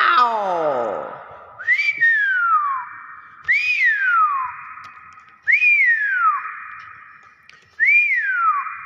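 Hill myna whistling: four clear whistles about two seconds apart, each a quick rise followed by a long downward glide in pitch, after a falling call at the start.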